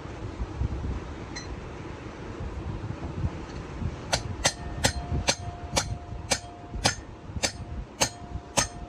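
Hammer blows on metal, about two a second, starting about four seconds in. Each strike rings, leaving a steady metallic tone between blows.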